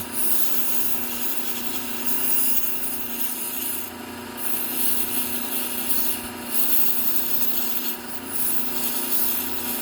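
Steel knife edge ground against the running fine Trizact A30 belt of a low-speed belt sander, in about five passes of a second or so each, over the sander's steady motor hum.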